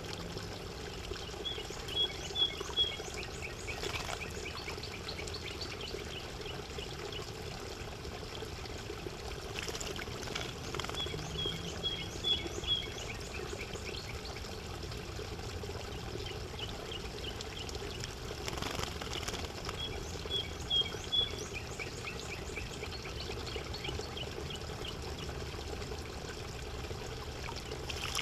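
Spotted towhee singing: a short phrase of a few clear high notes, repeated about every nine seconds, over a steady trickle of running water.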